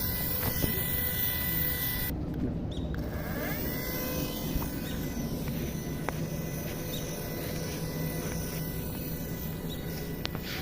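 Small electric motor of a homemade remote-control toy helicopter running steadily, a continuous hum with a faint steady whine.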